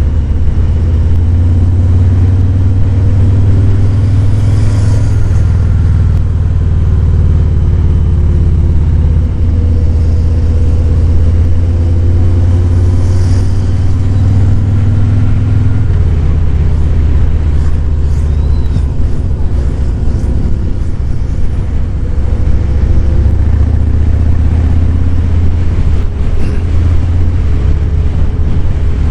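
Harley-Davidson Fat Boy 107's Milwaukee-Eight V-twin engine running as the motorcycle is ridden along a road, a steady deep exhaust note whose pitch shifts slightly with the throttle.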